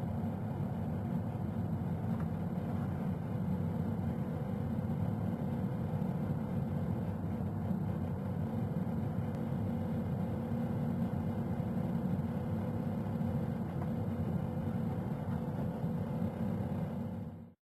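Steady low rumble of city background noise with a faint steady hum, heard through a microphone on a building ledge; it cuts off suddenly near the end.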